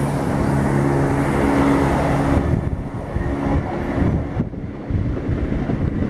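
Chiltern Railways Class 168 diesel multiple unit passing, its diesel engines humming with a steady tone for the first couple of seconds. Then the rushing wheel-on-rail noise thins and fades as the train moves away.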